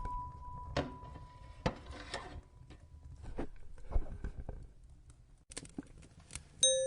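Wood fire crackling in a fireplace, with scattered sharp pops and snaps. A single chime note fades away over the first few seconds, and a new bell-like note sounds near the end.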